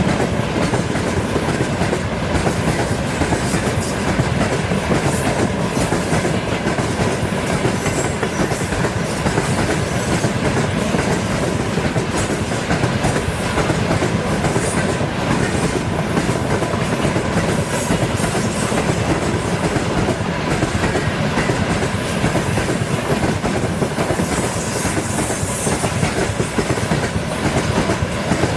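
Freight train passing at speed, its wagons' wheels running over the rail joints in a steady clickety-clack that continues unbroken.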